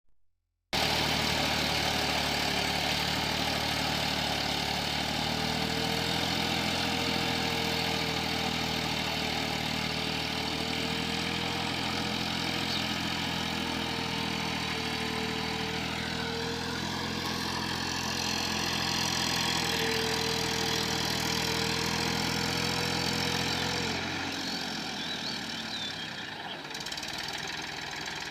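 Eicher 480 diesel tractor engine running steadily at idle. About 24 seconds in, its low hum drops away and the sound becomes quieter.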